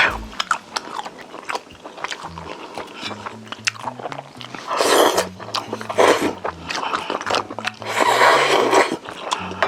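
Close-miked eating sounds: wet chewing and biting of Korean braised chicken, with many small mouth clicks and three longer, louder noisy mouth sounds about five, six and eight seconds in. Soft background music with a repeating bass line runs underneath.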